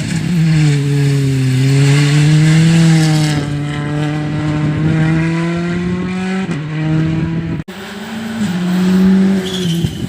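Rally car engine running hard on a stage, its note rising and falling with throttle and gear changes. The sound breaks off for an instant about three-quarters of the way through and another rally car's engine follows.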